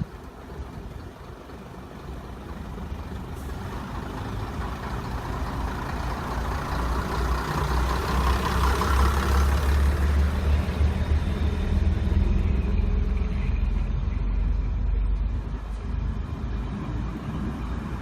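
Railway locomotive moving past, its deep engine rumble and running noise building up to a peak about halfway through, then easing off a little.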